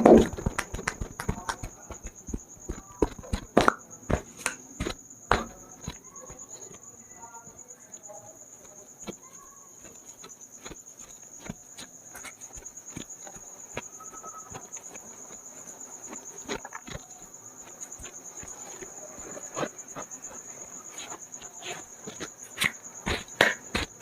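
A cricket trilling steadily at a high pitch throughout. Over it come scattered sharp taps and slaps of hands on head and skin during a head massage, thick in the first few seconds and again near the end.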